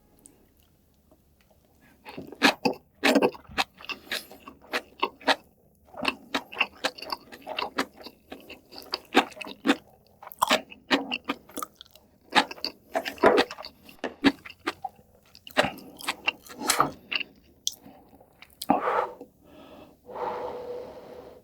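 A person chewing and crunching food in irregular, quick bites, starting about two seconds in.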